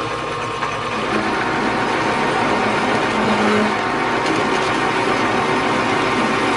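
Metal lathe running with the cutting tool taking material out of the centre of the part, a steady machine noise with a held hum; it grows a little louder about a second in as the cut bites.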